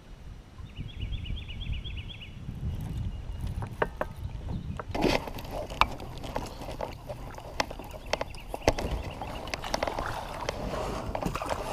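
A short trill of quick, repeated high chirps from a small bird near the start. From about five seconds in come many sharp clicks and knocks of fishing gear being handled in a kayak, over a low rumble of wind on the microphone.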